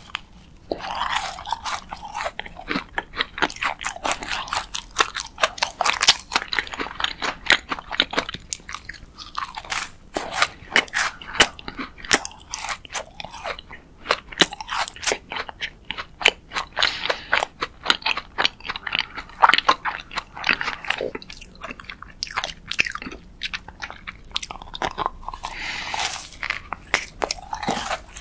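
A strawberry macaron being bitten and chewed: the crisp shell crunches in a dense run of small crackles, with chewing between bites.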